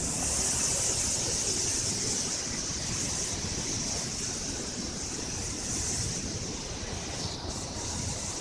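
Waterfall: a steady rush of falling water with a strong hiss of spray.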